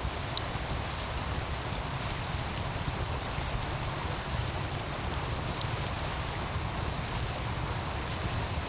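Wood fire crackling with scattered sharp pops, one louder pop about half a second in, over the steady rush of a meltwater stream.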